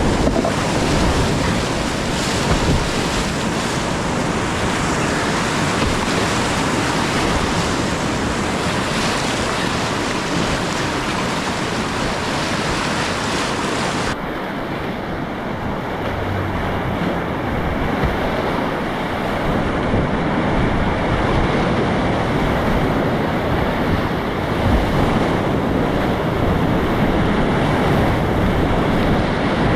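Whitewater rushing in a steep river rapid, heard close up as a loud, steady wash of water noise. About halfway through it abruptly turns duller.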